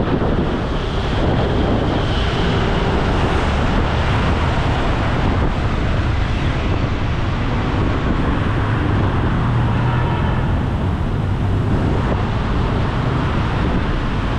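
Steady wind rush on the microphone with vehicle engine and traffic noise, riding in an open vehicle through city traffic.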